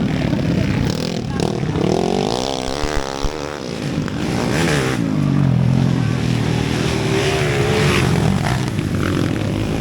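Several underbone motorcycle engines racing at once, their pitch rising and falling over one another as the bikes accelerate and ease off.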